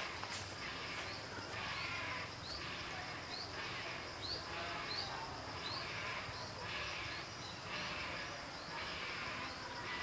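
A bird gives a short rising call over and over, a little more than once a second, over a steady high background hiss.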